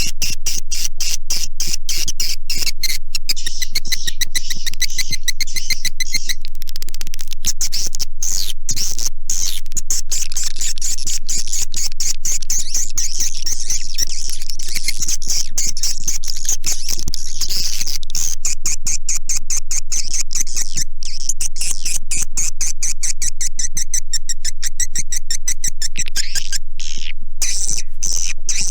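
Looped recording of swiftlet calls: dense, high-pitched chirping and rapid clicking trills that never pause. It is a swiftlet lure sound, played at swiftlet houses to attract the birds to roost and nest.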